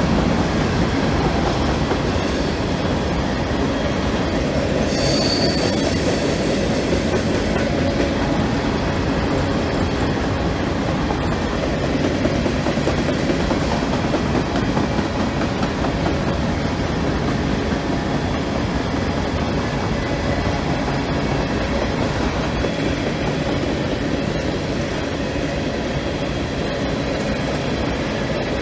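Covered hopper cars of a freight train rolling past at track speed on welded rail, a steady rumble of wheels on rail. About five seconds in, a high metallic squeal rises over it for about three seconds.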